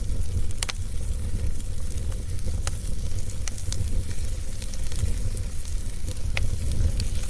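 Wood fire crackling, with a few sharp pops over a steady low rumble and hiss.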